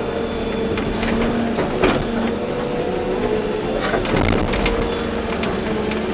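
Volvo EC240B excavator's diesel engine running steadily under hydraulic load while it works, with a few short knocks and clanks about two and four seconds in.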